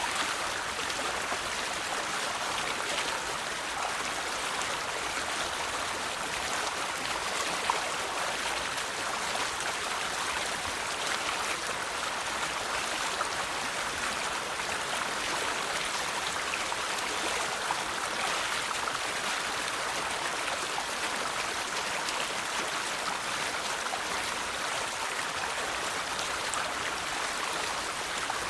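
River water flowing and babbling steadily over stones, an even rush with small splashes.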